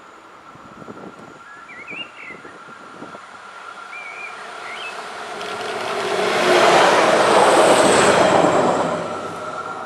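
Siemens Desiro Classic diesel railcar approaching and passing close by: a rising rush of wheels on rail and engine noise that peaks as it goes past, about two-thirds through, then starts to fade.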